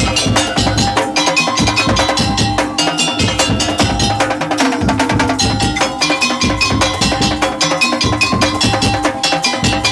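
Madurese daul (tong-tong) percussion ensemble playing a fast, dense rhythm. Wooden and bamboo knocks and drums beat continuously under ringing tuned metal notes.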